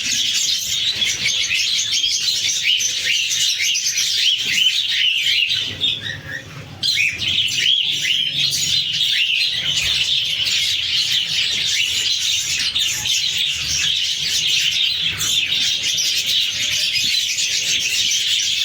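A flock of budgies chirping and chattering, a dense, continuous twitter with a brief lull about six seconds in.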